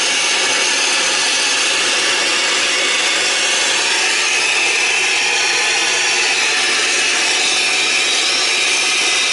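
Acetylene torch flame hissing steadily as it melts ice off a frozen suction accumulator on a refrigeration compressor.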